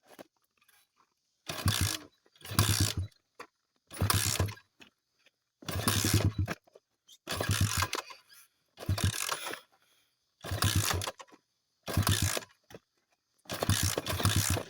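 Small 50 cc dirt bike being kick-started over and over: about nine kicks a little over a second apart, the engine turning over briefly with each kick but not catching. The bike has been sitting for a while.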